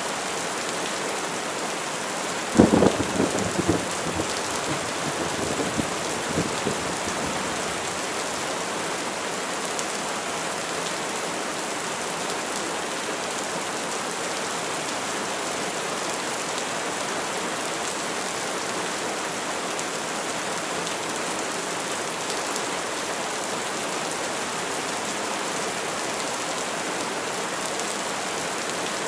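Steady heavy rain hissing, with a sharp crack of thunder about two and a half seconds in that rumbles on and fades over the next few seconds.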